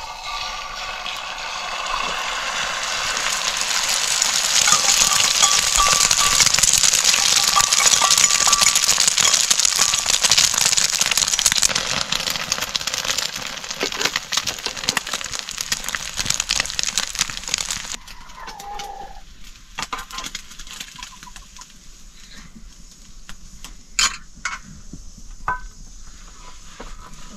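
Food sizzling and crackling in hot oil in a pan, swelling over the first few seconds and cutting off abruptly about eighteen seconds in. After that, scattered light clicks and knocks.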